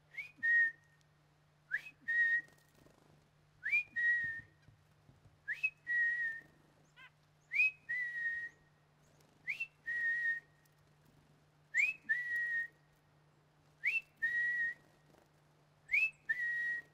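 A whistled call used to bring chickadees in to feed from the hand: a quick upward slur and then a held, slightly lower note, repeated about every two seconds.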